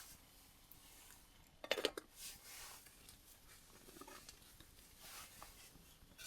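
Faint handling noises: soft rustles and light clicks, with a brief louder rustle about two seconds in and another at the very end.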